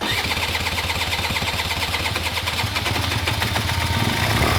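Small two-stroke Honda Dio scooter engine cuts in abruptly and runs steadily with a fast, even beat. It is running at last on a makeshift gravity-fed fuel tank that bypasses the failed fuel pump.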